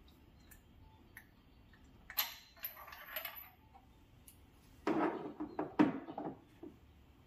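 Metal hand tools and parts being handled: scattered light clicks, a short run of scraping clinks, then a louder cluster of knocks and clatter.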